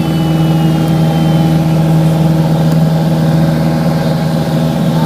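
Light aircraft's piston engine and propeller droning steadily in flight, heard from inside the cabin, with an even low hum and overtones that hold constant.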